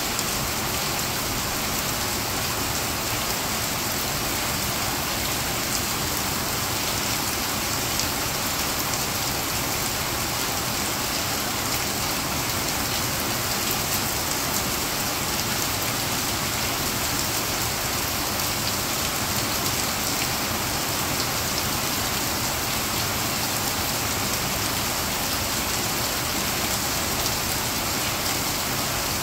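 Steady rain falling on wet concrete paving, a constant hiss dense with fine drop impacts.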